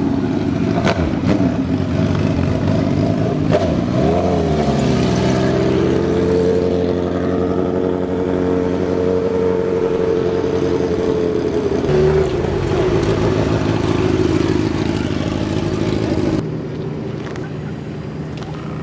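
A car engine revving up and holding at high revs for several seconds, then falling back about twelve seconds in and running on more quietly to the end.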